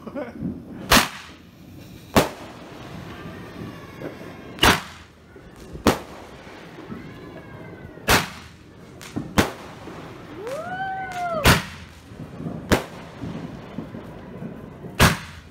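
Fireworks going off: about nine sharp bangs, spaced one to two and a half seconds apart. About two thirds of the way in there is a rising-then-falling wail.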